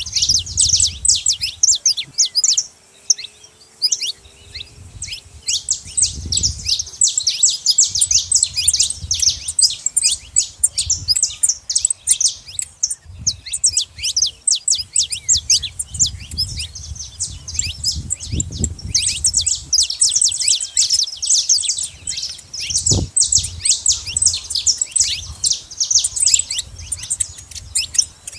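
Saffron finches chirping nonstop: a dense run of quick, high calls with a short pause about three seconds in.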